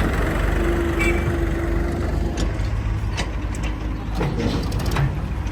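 Heavy diesel machinery engine running steadily, with a held whine that fades out about two seconds in, then a scatter of sharp knocks.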